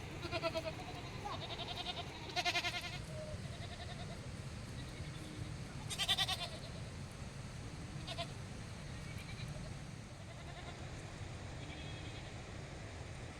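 A flock of sheep and goats bleating, several quavering calls from different animals, the loudest about six seconds in, with quieter bleats after it.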